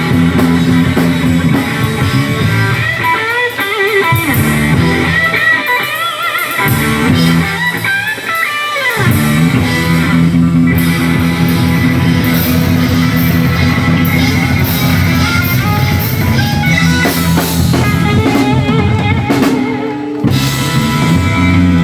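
Rock and roll band playing an instrumental passage: guitar over bass and drum kit. A lead line wavers and bends for the first several seconds and slides down about nine seconds in, after which the full band carries on steadily.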